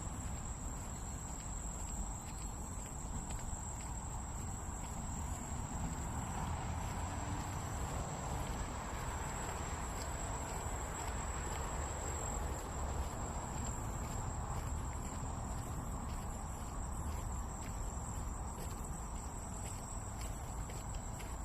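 Crickets trilling in a steady, unbroken high-pitched tone, over a low rumble of background noise.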